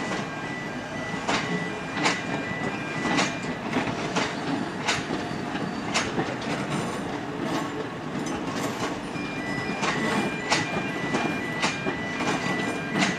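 Electric multiple-unit train running at low speed, its wheels clacking sharply over rail joints and points about once a second above a steady rolling noise. A faint high, pulsing whine sounds at the start and again from about ten seconds in.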